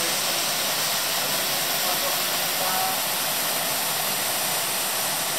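Steady, unbroken rush of water from a mountain waterfall, a hiss-like noise.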